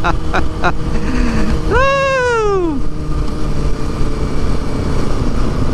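Motorcycle running at road speed, with a steady engine drone and wind rush on the helmet microphone. About two seconds in, a single drawn-out vocal note rises and then falls over about a second.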